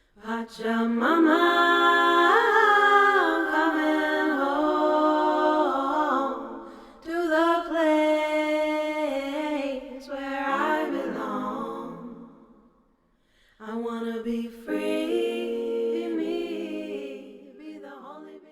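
Wordless a cappella singing: long held and gliding vocal notes in three phrases, with short breaks between them.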